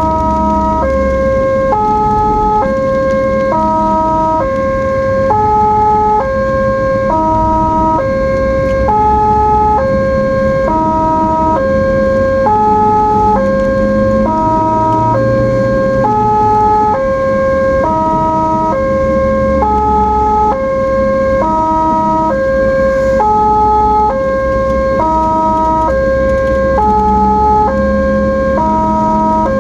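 Ambulance siren sounding a two-tone hi-lo pattern, switching between two pitches about every three-quarters of a second, over a low vehicle rumble.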